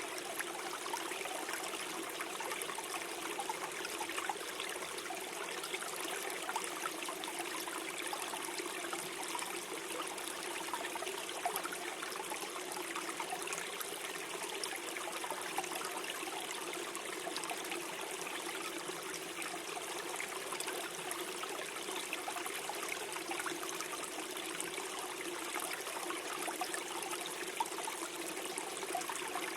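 Small forest stream flowing and gurgling over stones, a steady trickling wash of water.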